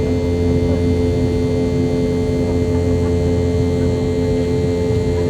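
Boeing 717-200's rear-mounted Rolls-Royce BR715 turbofan engines heard from inside the cabin, running steadily: a constant drone with strong steady tones over a low rumble.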